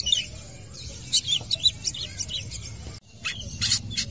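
Long-tailed shrike (cendet) singing: a quick, chattering run of sharp, high chirps. A sudden break comes about three seconds in, followed by a few louder, clipped notes.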